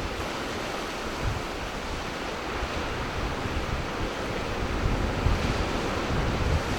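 Ocean surf, a steady rush of breaking and washing waves, with wind buffeting the microphone in uneven low rumbles.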